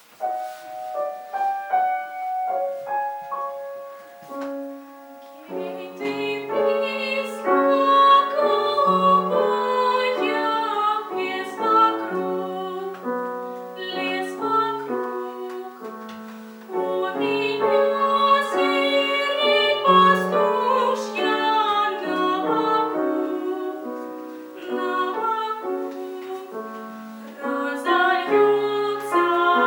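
A piano plays an introduction of single stepping notes, then a female voice sings a slow, drawn-out folk song in a classical style with piano accompaniment, coming in a few seconds in.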